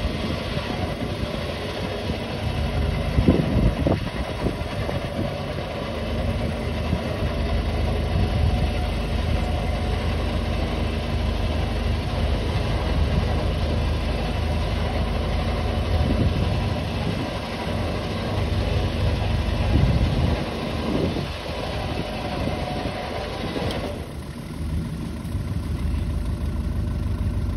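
A four-wheel-drive's engine running at idle with a few brief rises in revs while the vehicle is hauled up a sandy ramp on a recovery line. A higher, brighter part of the sound cuts off suddenly near the end, leaving the low engine hum.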